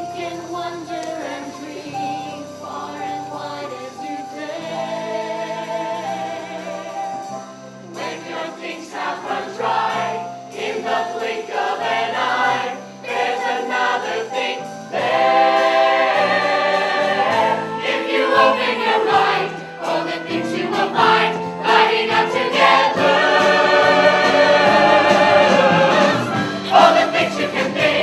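Stage-musical cast singing together as a chorus over instrumental accompaniment, growing louder and fuller about halfway through.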